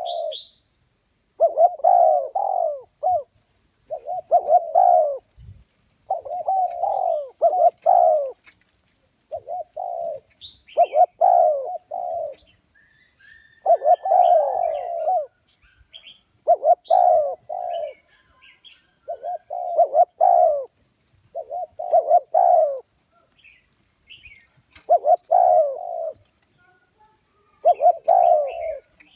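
Spotted dove cooing, phrase after phrase of three or four deep coos with short pauses between, repeated about every two seconds: the male's cooing call used as a lure to draw wild doves to a trap. Faint chirps of small birds sound between the phrases.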